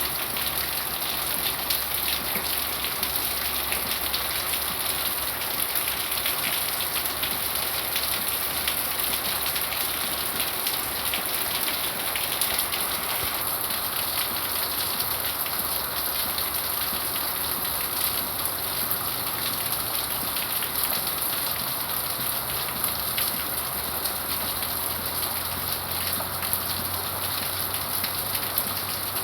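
Heavy rain falling steadily, with many drops pattering on surfaces.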